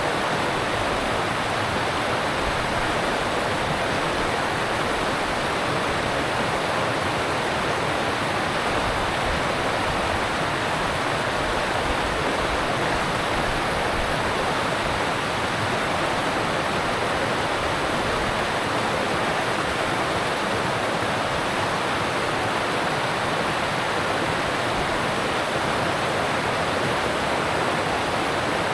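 Alpine mountain stream rushing past over rocks: a steady, even rush of water with no breaks.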